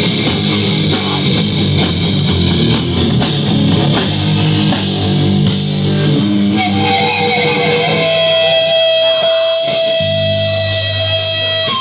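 Live heavy rock band playing loud with distorted electric guitar and drums. About halfway through the drumming drops away and a single high guitar note is held, ringing out as the song winds to its end.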